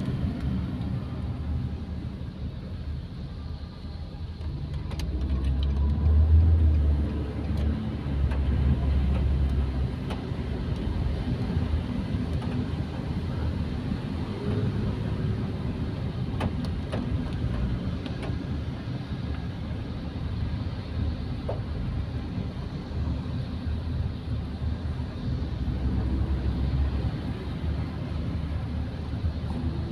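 Car driving on a wet road, heard from inside the cabin: a steady low rumble of road and engine noise that swells for a few seconds about a fifth of the way in.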